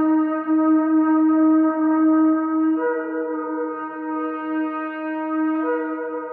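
Shofar (ram's horn) blowing a long, steady note. About three seconds in, a higher note joins and sounds together with it.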